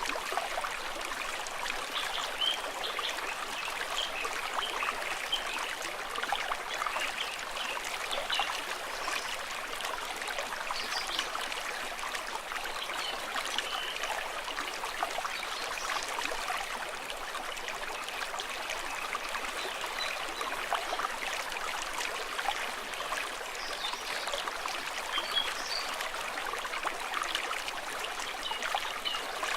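A small stream running and trickling steadily, with small splashes throughout.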